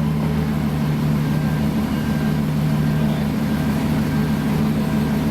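Ferrari F12 N-Largo's V12 engine idling steadily, a low, even note with no revs.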